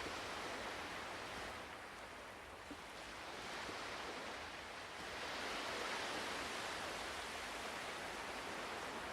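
Ocean waves washing onto a shore, a soft steady hiss of surf that eases a couple of seconds in, then swells again and builds near the middle.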